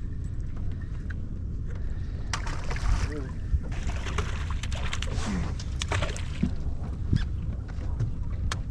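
Steady low rumble and wash of a fishing boat at sea, with wind on the microphone, scattered sharp clicks and knocks, and a brief voice about three seconds in.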